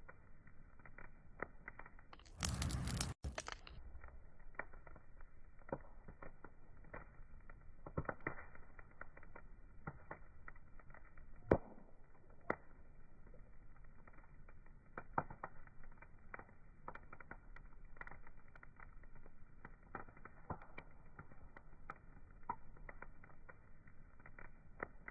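Wood fire crackling, with irregular sharp pops and snaps, the sharpest about eleven seconds in. Early on, a brief hiss lasting about a second covers the crackle and cuts off suddenly.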